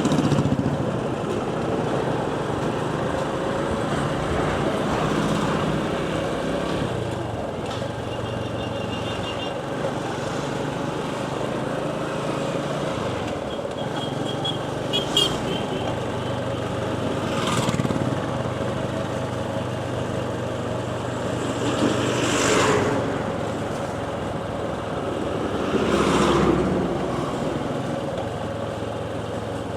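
Motorcycle riding along a road, its engine running steadily under road and wind noise. Other vehicles pass three times in the second half, and brief high-pitched beeps sound twice near the start of the middle stretch.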